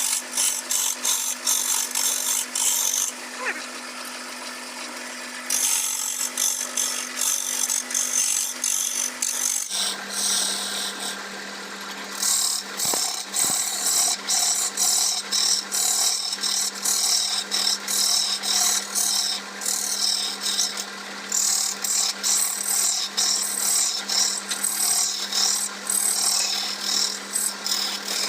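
Wood lathe running with a steady motor hum while a turning tool scrapes and cuts the spinning black teak in quick, repeated passes, with short pauses. The hum drops a little in pitch about ten seconds in.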